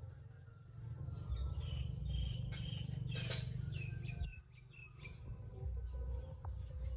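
Small birds chirping in short, quick calls over a steady low rumble, with one sharp click about three seconds in.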